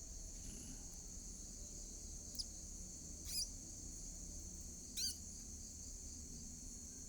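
Steady high-pitched cricket chorus, with three short, squeaky, wavering chirps from the nestling birds about two and a half, three and a half and five seconds in; the last two are the loudest.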